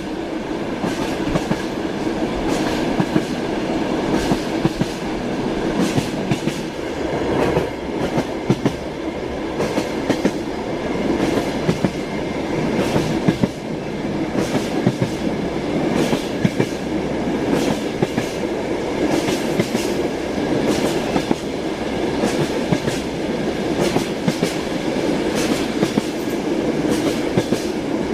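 Train wheels clacking over rail joints while the train runs at speed: a steady rumble with frequent sharp knocks.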